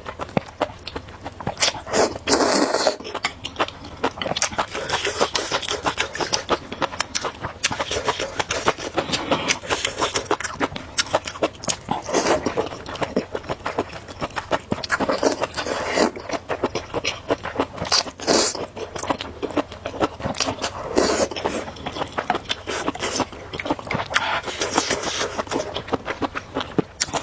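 Noodles being slurped and chewed close to the microphone: repeated wet slurps in bursts every few seconds, with many small smacking mouth clicks in between.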